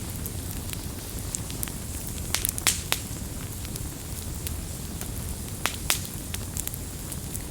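Wood campfire crackling: a steady low rumble of the flames with irregular sharp pops and snaps, a cluster of louder pops about two and a half seconds in and again near six seconds.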